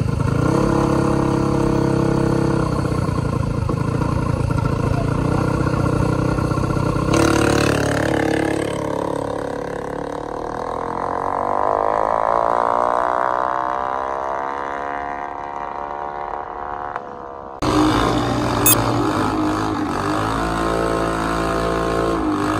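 Drag-racing vehicle engines: an engine runs steadily, then a vehicle accelerates away, its note rising and then fading. After an abrupt change near the end, another engine runs steadily, with a few sharp clicks.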